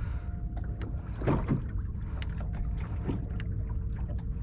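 Small fishing boat at anchor: a steady low wash of water and wind on the microphone, with scattered light clicks and knocks.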